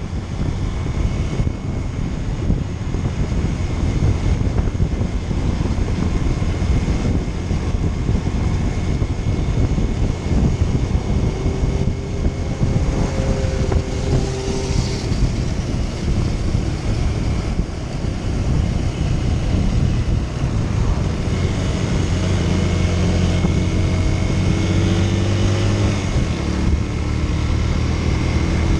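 Motorcycle engine running under way, mixed with wind rushing over the microphone. The engine's pitch shifts a little around the middle and steadies in the second half.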